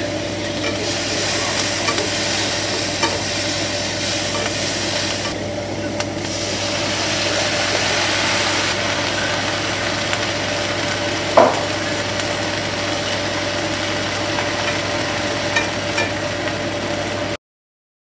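Shredded pork and garlic scapes sizzling in a hot nonstick frying pan as they are stir-fried, with a steady hiss, light scrapes of the spatula and a steady hum underneath. A single sharp clack about eleven seconds in. The sound cuts off to silence just before the end.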